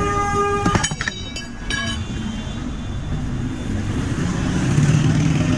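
Road traffic passing, with a steady low engine rumble. A vehicle horn is held until just under a second in, then gives two short toots.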